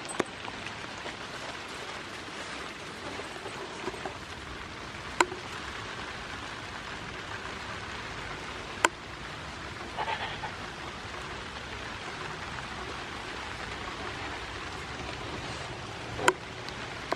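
Steady rain falling, with a few sharp clicks spread through it.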